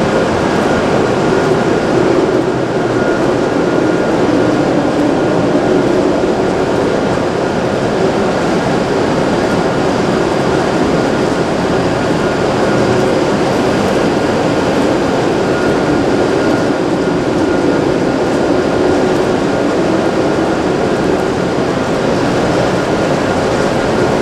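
Hokuriku Shinkansen train standing at the platform: a steady, even hum and whir of its running equipment, with a faint constant high tone over it.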